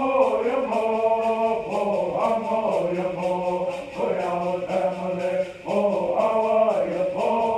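Several voices singing together in a chant-like style, holding notes that change together every second or so, over a fast, steady ticking beat.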